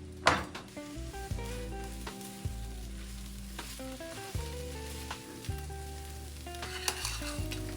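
Food sizzling as it fries in a pan, with a few sharp clicks of a utensil against the pan, the loudest just after the start and another near the end, under soft background music.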